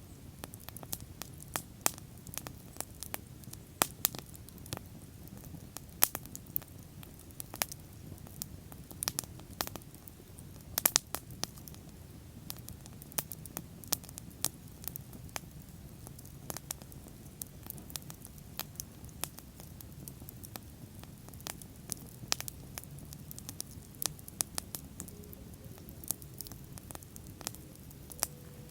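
Bonfire crackling: irregular sharp pops and snaps, several a second, some louder than others, over a steady low rush from the burning wood.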